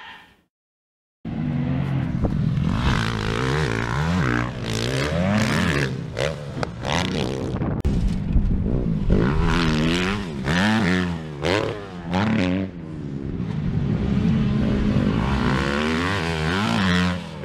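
Dirt bike engine revving hard, its pitch climbing and dropping over and over as the rider accelerates, shifts and backs off around a motocross track. The sound cuts in about a second in, after a moment of silence.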